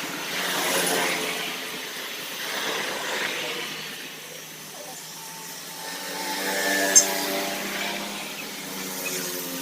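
Engine noise that swells and fades a few times, then a steady engine hum in the second half, with one sharp click about seven seconds in.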